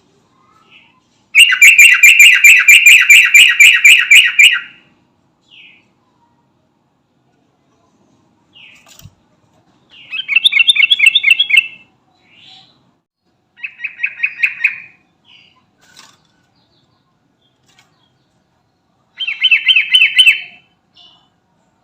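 Yellow-vented bulbul (trucukan) calling in loud bursts of rapid, repeated chattering notes: one long phrase of about three seconds, then three shorter phrases spaced several seconds apart.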